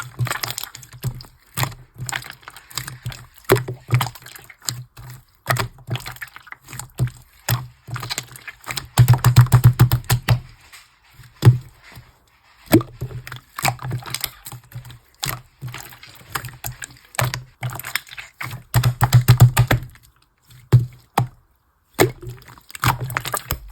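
Slime being squeezed and worked by hand, giving dense runs of sharp clicks and crackling pops, busiest twice in the middle.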